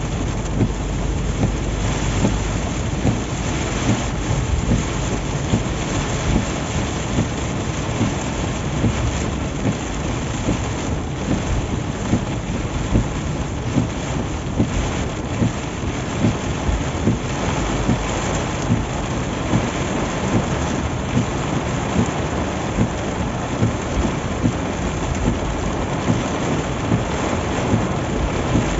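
Heavy rain falling on a moving car, a dense steady hiss with frequent sharp taps of drops, over road noise.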